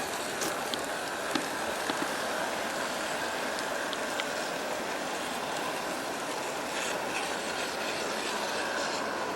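G scale model train of metal-wheeled passenger cars rolling on garden-railway track, a steady rolling rumble with a few sharp clicks from wheels over rail joints in the first couple of seconds.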